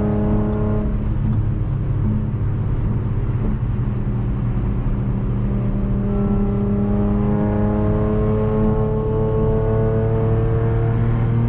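Straight-piped Audi's exhaust droning steadily under way, the engine note climbing slowly through the second half as the revs rise.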